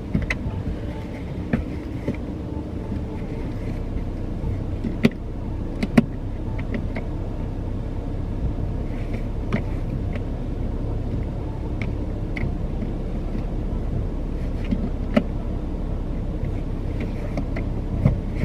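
A steady low rumble, with scattered light clicks and knocks, the sharpest about five and six seconds in.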